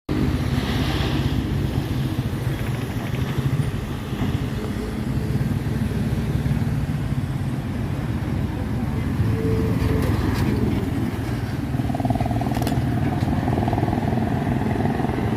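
Roadside traffic: truck and other vehicle engines running and passing continuously. A steady higher tone comes in for a few seconds near the end.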